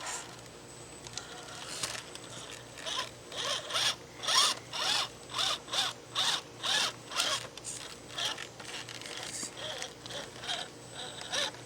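Rhythmic mechanical ratcheting, a run of short strokes about two a second through the middle, with weaker clicks around them.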